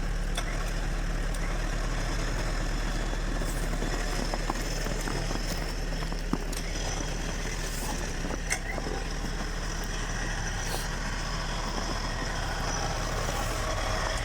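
Tow truck's engine idling steadily, with a couple of faint knocks partway through.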